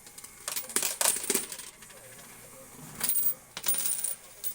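Quarters clattering and clinking in a coin pusher arcade machine, in two bursts: one about half a second in, another about three seconds in with a bright metallic ring.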